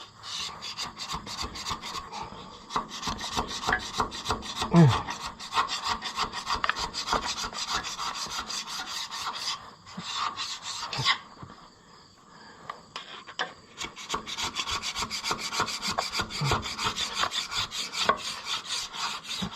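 Rapid back-and-forth hand scraping, about five strokes a second, cleaning a part's surface. It pauses for a few seconds midway and then picks up again.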